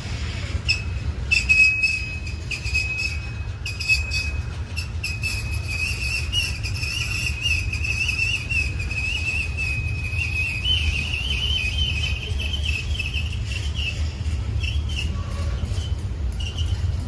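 Steel train wheels squealing against the rails in one high, wavering tone that climbs slightly and fades near the end. Beneath it is the steady low rumble of a passing train, with scattered sharp clicks.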